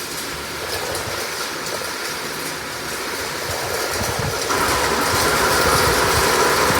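Heavy rain and strong wind, with wind buffeting the phone's microphone. About four and a half seconds in, a gust picks up and the noise grows louder.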